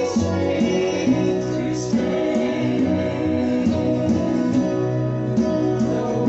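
Live gospel music: voices singing over guitar accompaniment with a steady strummed beat.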